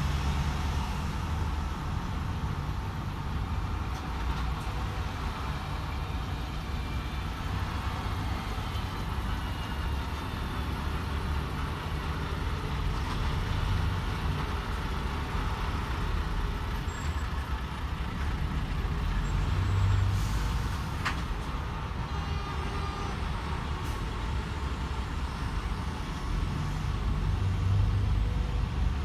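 DAF XF 510 truck running along a motorway: a steady low drone from the engine, mixed with road noise. There are two brief louder low swells, one past the middle and one near the end, and a single short click.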